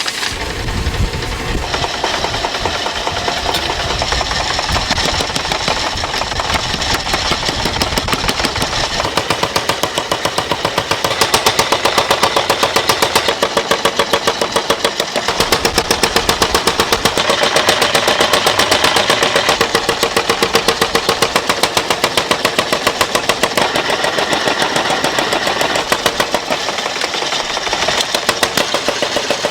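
Factory machinery running with a fast, even rattle of many sharp strokes a second, louder from about a third of the way in.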